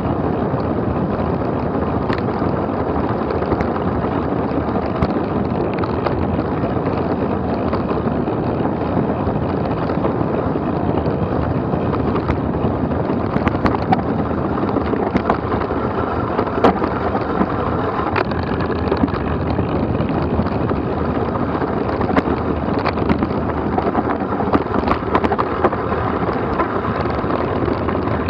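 Wind buffeting the microphone and tyres rumbling over a rough trail during a fast descent. Frequent short knocks and rattles come through, more of them in the second half.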